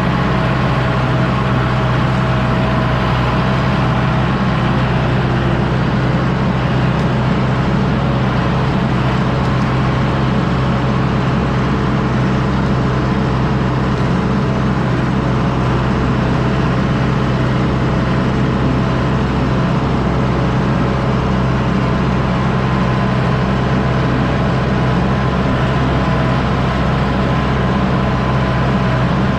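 John Deere 6110D tractor's diesel engine running steadily under load while pulling a disc harrow.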